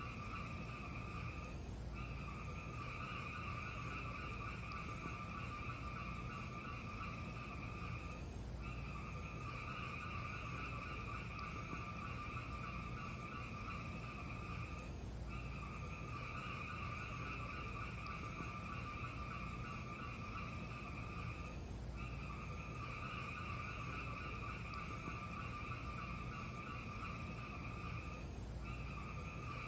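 Steady hiss and low rumble of a fireplace sound track, dropping out briefly about every six and a half seconds, as a repeating loop would.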